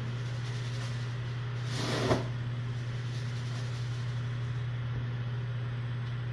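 A steady low hum, with a single short knock about two seconds in.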